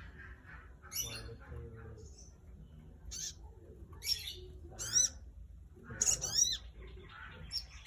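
Small bird, known locally as a sogon or cici jantung, giving short, sharp, high chirps, one at a time about a second apart, some with a quick rise and fall in pitch.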